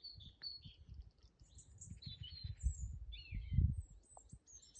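Small birds chirping and trilling, many short high calls, over an irregular low rumble.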